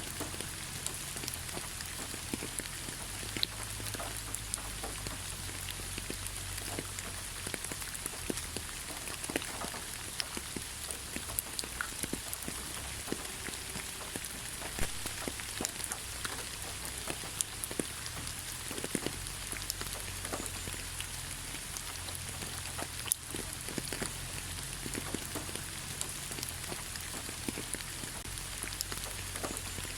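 Light rain falling on leaves: a steady hiss with many separate drops tapping at random.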